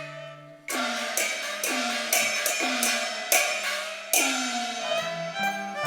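Cantonese opera percussion in a break between sung lines: a run of about seven gong and cymbal strikes, roughly two a second, starting a little under a second in, each gong stroke ringing with a falling pitch over the held notes of the accompanying band.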